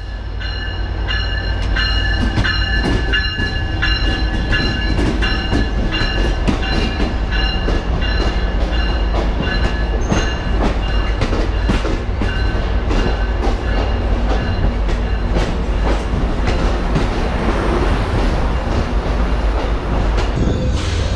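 Amtrak passenger train rolling in alongside a station platform: a steady low rumble from the locomotive and cars, with wheels clicking over rail joints. High squealing sounds on and off over the first several seconds.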